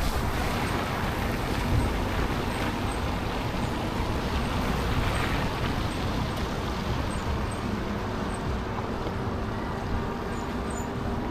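Steady rumble of road traffic and wind noise heard from a moving e-bike riding along town streets.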